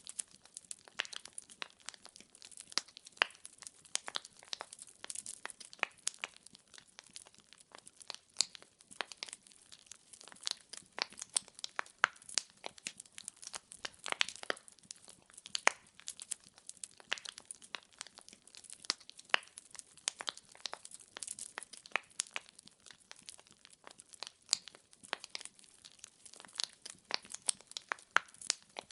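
Burning firewood crackling: a dense, irregular run of sharp pops and snaps over a faint hiss, with no lull.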